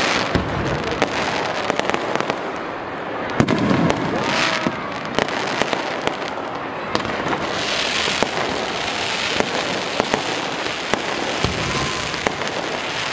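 Fireworks display: a rapid string of bangs and sharp cracks from bursting shells and rising comets. Around four and eight seconds in, a sizzling crackle swells.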